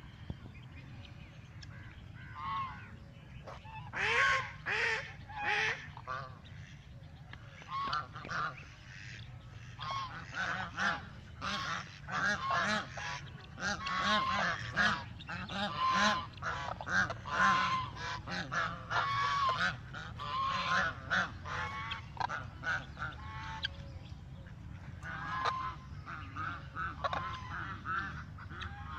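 A flock of ducks quacking and honking, many short calls overlapping in quick succession, busiest through the middle and thinning out near the end, over a steady low rumble.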